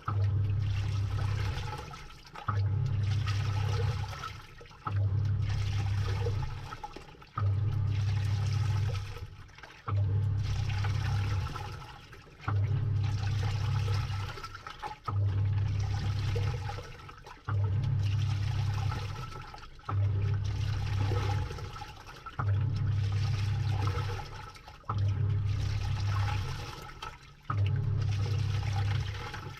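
Samsung 6.5 kg top-load washing machine agitating a load, heard from inside the drum. The motor hums in strokes of about two seconds with short pauses, roughly every two and a half seconds, as the pulsator turns back and forth and the water and clothes slosh and churn.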